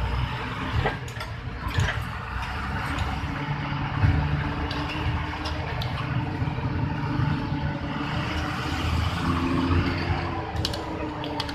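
Truck engine running steadily while driving, with occasional sharp knocks and rattles.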